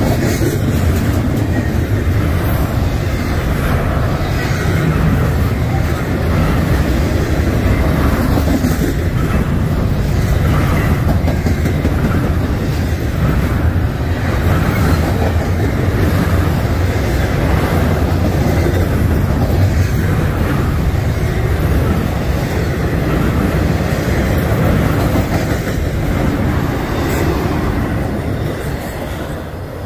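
Norfolk Southern freight train rolling past close by, a loud steady rumble of the cars with wheels clacking over the rail joints every second or two. The sound eases off slightly near the end.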